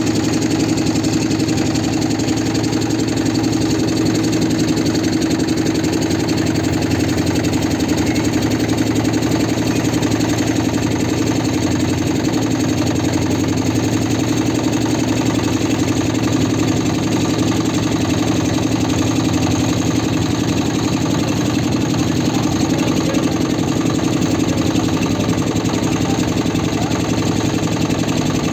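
A motorboat engine running steadily at an even, unchanging pitch.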